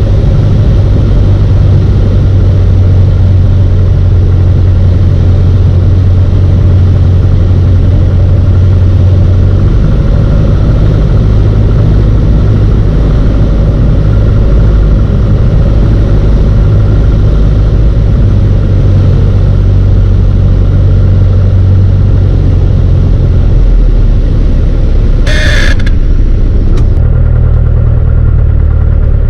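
Piston engine and propeller of a light aircraft droning loudly and steadily in the cockpit, its note shifting slightly a couple of times. A brief burst of noise cuts in about 25 seconds in.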